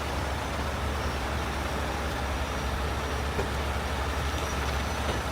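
Heavy tow truck diesel engines running steadily while the righted trailer is lowered, over the steady hiss of heavy rain.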